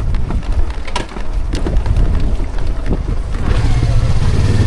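Yamaha R25 being bump-started, a push start on a bike whose dash won't light up: rough rolling and rattling noise with scattered clicks, then about three and a half seconds in its 249 cc parallel-twin engine catches and runs steadily.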